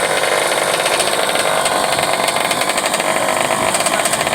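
Small dirt bike engine running steadily.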